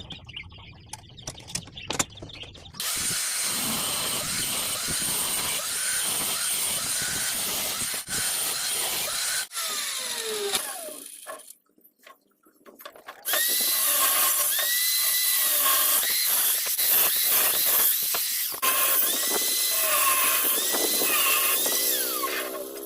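A handheld power tool working steel, in two long spells with a short pause between them. Its motor pitch repeatedly sags and recovers as it bites.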